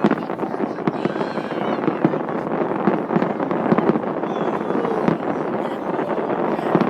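Aerial fireworks display: a dense, continuous barrage of bangs and crackling, many reports a second with no pause.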